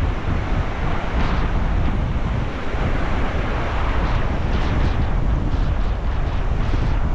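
Sea waves washing in, with a few surges of hiss as they break, under heavy wind buffeting the microphone with a low rumble.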